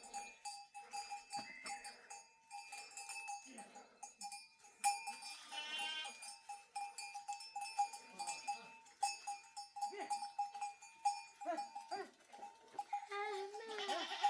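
Livestock bells clinking over and over as the flock moves, with bleating about five seconds in and again near the end.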